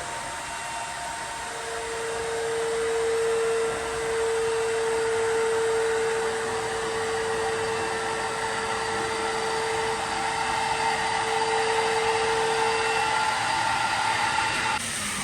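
A small electric motor running steadily with a whirring rush and a single steady hum that comes in a second or so in and fades out near the end.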